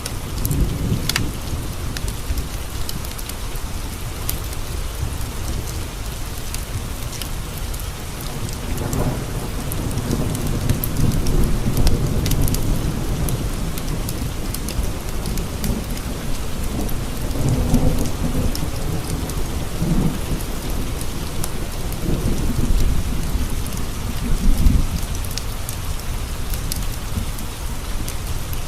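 Steady rain with thunder rumbling low several times, rolling in and out in long swells. Scattered sharp clicks sound over the rain.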